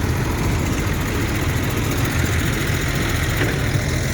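Tractor engines running steadily at low revs, a constant low engine drone.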